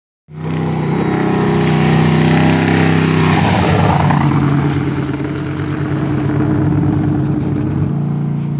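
Trophy truck race engine running loudly at a steady pitch, with a swell of rushing noise about three seconds in, then the engine fading slowly.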